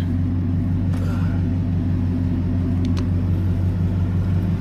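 A vehicle engine idling steadily with a low rumble. Two faint clicks come about one and three seconds in.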